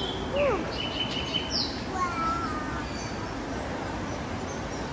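Birds calling: a few falling whistles and a rising-and-falling cry in the first second, the loudest sound, then a short steady whistle and a warbled note about two seconds in, over a low murmur of visitors.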